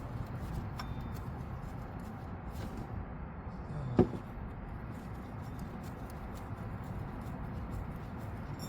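Hand tools working on a bolt under a car: faint light clicks over a low steady hum, and one sharp knock about four seconds in.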